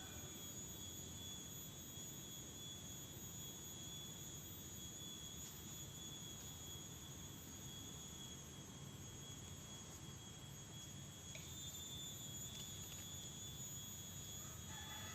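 A steady high-pitched whine with overtones, stepping slightly up in pitch about eleven seconds in, over a low steady rushing noise.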